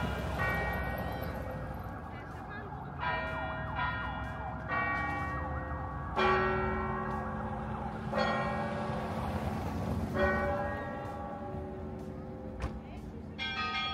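Church bells ringing, several bells of different pitches struck in an uneven pattern, each stroke ringing on and overlapping the next.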